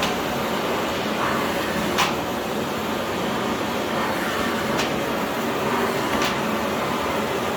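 Philips PowerPro FC9331/09 900 W bagless vacuum cleaner running steadily, with three light knocks about two, five and six seconds in.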